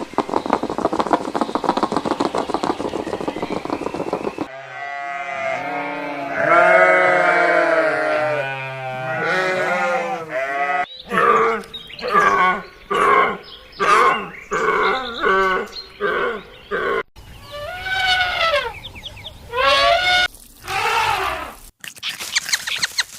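Farm animals bleating in a run of short clips with abrupt cuts. First comes a harsh, rapidly pulsing call, then long wavering bleats, then a string of short calls repeated about once a second.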